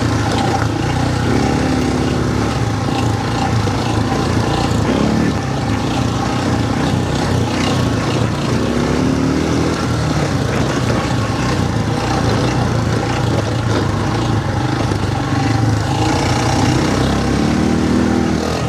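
Quad bike (ATV) engine running while riding, its pitch rising and falling several times as the throttle is opened and eased off.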